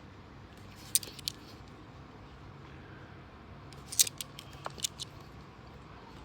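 Australian $2 coins clinking against each other as they are handled, in sharp metallic clicks: a couple about a second in and a quick cluster around four to five seconds in.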